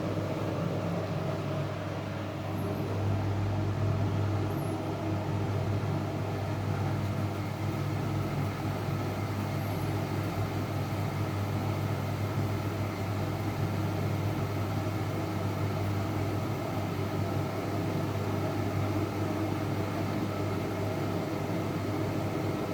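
Washing machine running with a load of blankets: a steady low motor hum with a few steady higher tones above it.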